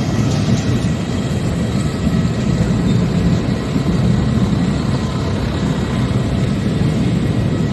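Steady drone of machinery running, with faint high steady whining tones above it.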